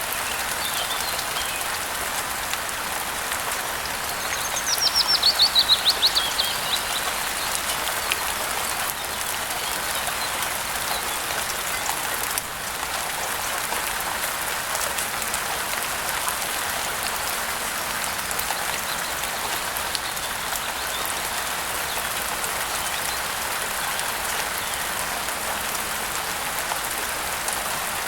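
Steady rain falling. About five seconds in, a bird sings a quick run of about a dozen descending notes, the loudest sound here, and there are faint chirps at the start.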